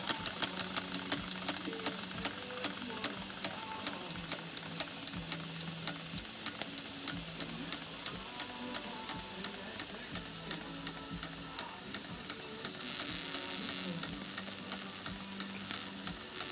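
Jensen #76 model steam engine running under steam: a steady hiss of escaping steam with an even beat of exhaust puffs, a few a second. The hiss swells for a moment a little after the middle.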